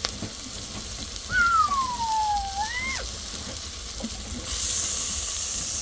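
One drawn-out whining call from a small animal, falling in pitch and then rising sharply at its end, over a steady hiss.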